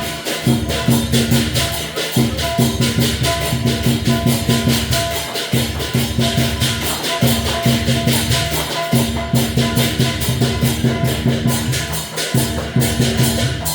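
Dragon dance percussion: a fast, loud, steady beat of clashing cymbals over a drum with low ringing tones, in phrases of a second or two broken by brief pauses.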